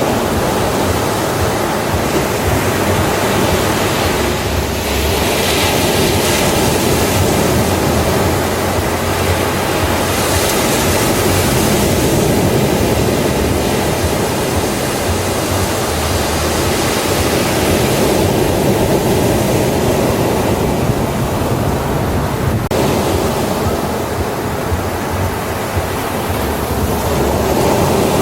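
Ocean surf breaking on a beach: a steady, loud wash of waves that swells and eases slowly.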